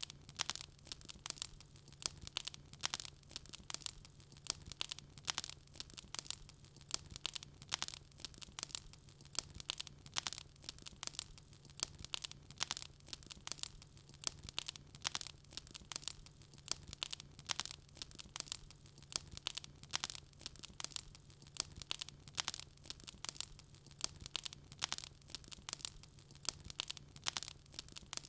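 Wood fire crackling: a dense, irregular run of sharp snaps and pops from burning logs.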